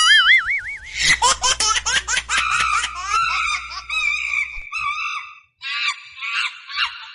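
A wavering, wobbling high tone for about a second, then high-pitched laughter, quick bursts at first that slow into longer, drawn-out giggles, like a comedy laugh sound effect.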